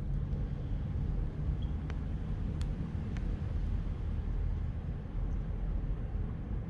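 Steady low rumble with a few faint clicks, about two and two and a half seconds in.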